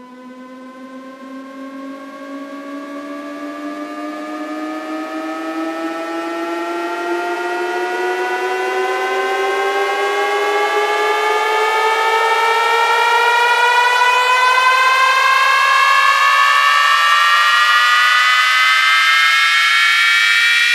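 A synthesized riser from a sound-check track: one buzzy tone with many harmonics sweeping slowly upward in pitch and growing steadily louder, with a second sweep climbing faster alongside it.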